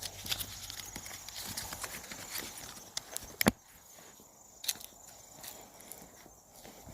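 Footsteps on the woodland floor: irregular clicks and crackles underfoot, with one sharp crack about halfway through and a softer one about a second later, after which the steps thin out.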